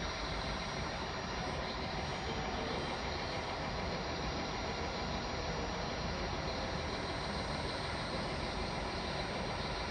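Koleje Dolnośląskie passenger train unit standing at the platform with its equipment running: a steady rumble and hiss with a thin, high, steady whine on top.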